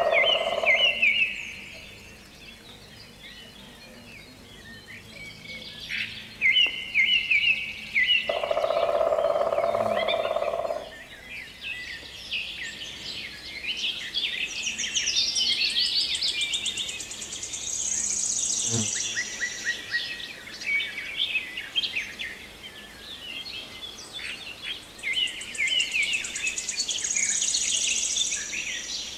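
Several songbirds singing, with chirps and high trills overlapping. A lower, steady sound about two seconds long comes at the very start and again about nine seconds in.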